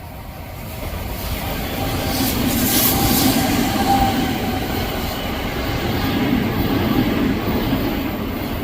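Odakyu Line electric commuter train passing, growing louder to a peak about three seconds in, staying loud for several seconds, then easing off near the end, with a brief high hiss near the loudest point.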